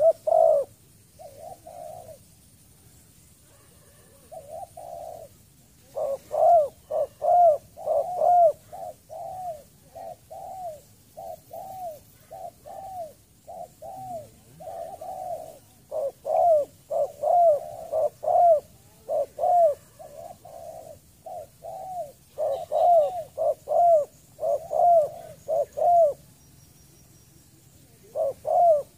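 Spotted dove cooing: a long series of short, low, arching coos, about two a second, in runs with brief pauses. The first few seconds hold only a few quieter coos, and the calling stops for a couple of seconds near the end before starting again.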